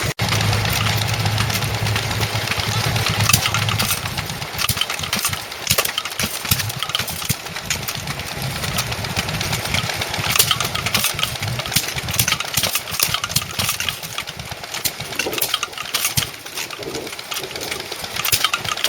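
Old stationary engines running, with irregular sharp beats over a low hum. The hum is strongest for the first few seconds.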